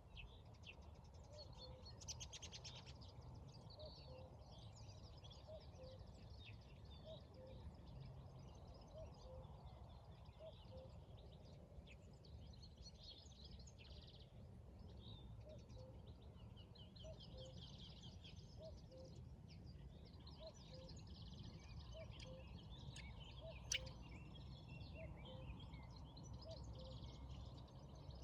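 Faint outdoor birdsong: many small birds chirping and trilling, with a low two-note call repeated steadily about every second and a half, over a steady low rumble. One sharp click about 24 seconds in.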